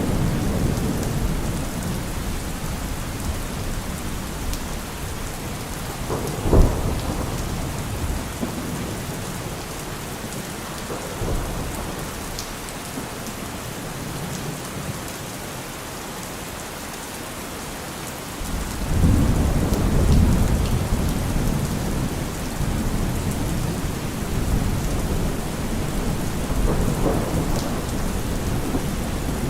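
Steady rain with thunder: a low rumble fading over the first few seconds, one sudden sharp crack about six seconds in, and a longer low rumble building about two-thirds of the way through.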